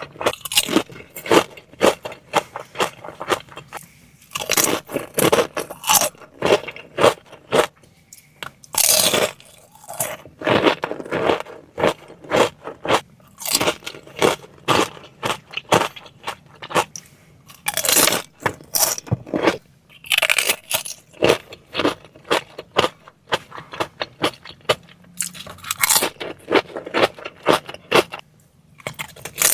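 Close-miked eating sounds: crunching and wet chewing of food, with scraping, coming in clusters with short pauses between bites.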